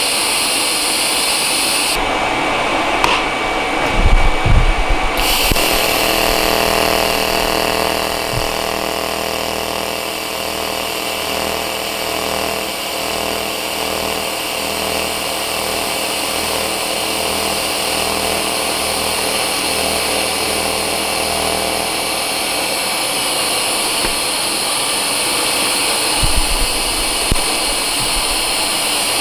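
TIG welding arc on stainless steel tube, a steady hiss with an added buzzing hum that beats at a regular pulse from about five seconds in until about twenty-two seconds, as the welder's pulse is worked while filling a wide gap. A few knocks around four seconds in and again near the end.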